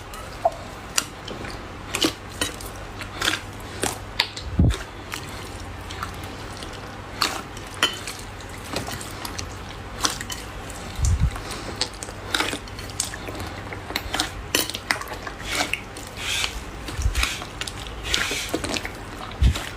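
Hands pressing and poking slime: a stream of irregular sharp clicks and pops, with a few dull thumps.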